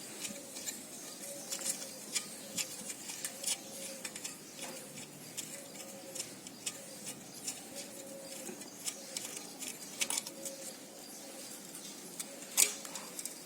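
Scattered light clicks and small metal clinks, irregular, with a sharper one near the end, over a faint steady tone.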